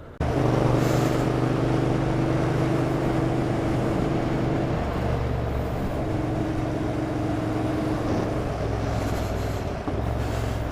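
Motorcycle engine with a Vance & Hines exhaust running under way, coming in suddenly at the start. Its note holds steady, then shifts about five seconds in and again near the end.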